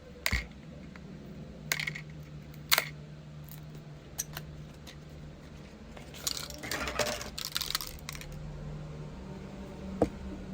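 Small hard objects being handled, with several sharp clicks and taps and a stretch of rustling from about six to eight seconds in, over a steady low hum.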